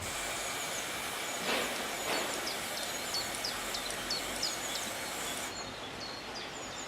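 Aerosol spray-paint can hissing as red paint is sprayed onto masked quivertip sections, cutting off suddenly about five and a half seconds in. Birds chirp repeatedly throughout.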